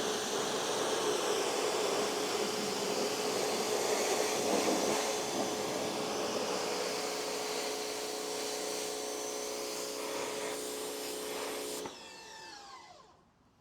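Pressure washer spraying water: a steady hiss over the machine's steady hum. Near the end the spray cuts off suddenly and the motor spins down, its pitch falling as it fades.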